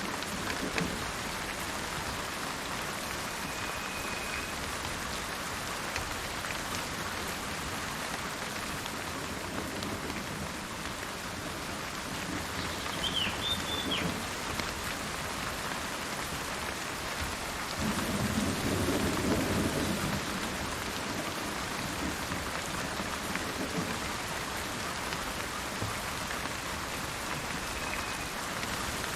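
Steady rain falling, with a low roll of thunder about two-thirds of the way through. A bird gives a few brief chirps over the rain.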